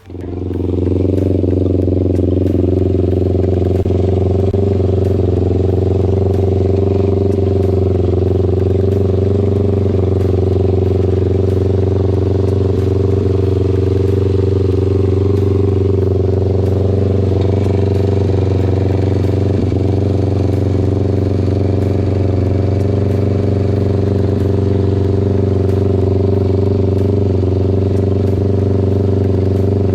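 An engine running at a steady speed: an even, unchanging drone with no revving.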